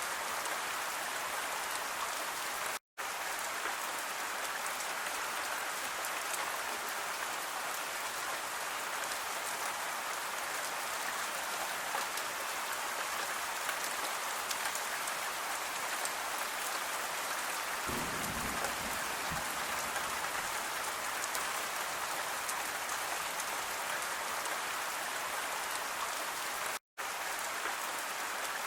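Steady rain falling, an even hiss of drops with no let-up. Near the middle there is a brief low rumble, and twice the sound cuts out completely for a split second.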